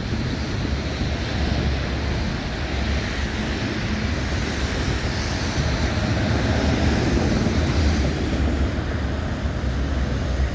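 Wind buffeting the microphone over a steady low rumble from a departing freight train.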